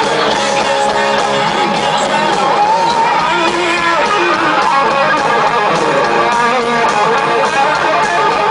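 Rock band playing an instrumental passage led by electric guitar, with no vocals.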